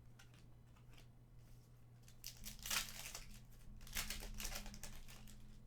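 Foil trading-card pack wrapper crinkling and tearing as a pack of hockey cards is opened, in two rustling spells starting about two and four seconds in.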